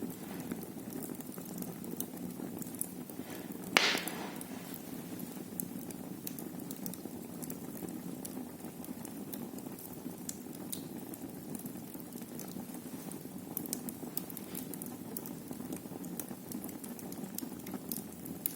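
Wood fire burning in a fireplace: a steady low rush of flames with scattered small crackles, and one loud pop about four seconds in.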